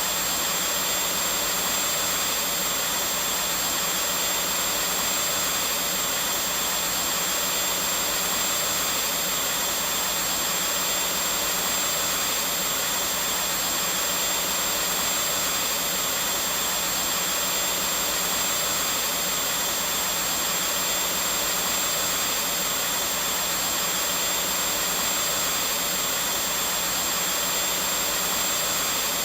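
Vacuum cleaner running steadily: an even, unbroken motor hum and rush of air with a faint high whine.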